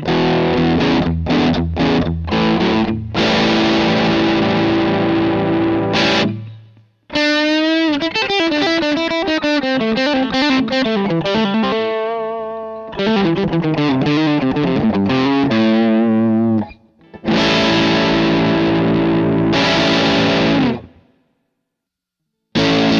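Overdriven electric guitar through a Korg AX3G multi-effects unit's AC30TB amp model (a Vox AC30 Top Boost). It plays choppy chord stabs and a held chord, then a fast single-note run, then ringing chords, with short pauses between phrases.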